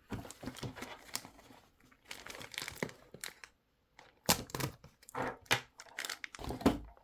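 Toy packaging crinkling and tearing as parts are pulled free, with irregular rustles and several sharp clicks and knocks in the second half.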